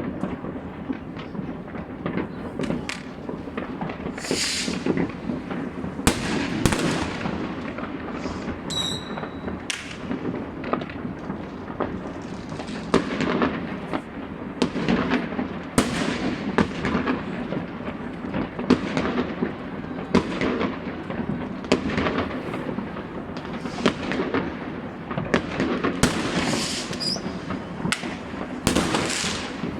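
New Year fireworks going off non-stop across a city: a constant rumble of many distant bursts, with frequent sharper, nearer bangs and a short whistle about nine seconds in.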